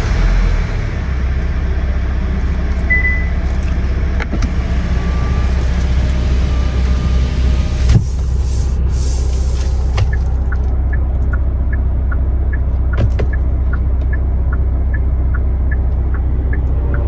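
Kia Sorento's 2.2-litre four-cylinder CRDi turbodiesel idling with a steady low rumble. About ten seconds in, the higher hiss drops away and a light ticking comes in at about two ticks a second.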